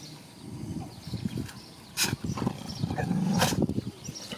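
Dogs growling and scuffling at play, a rough, uneven low sound, with two sharp knocks about two seconds in and again about a second and a half later.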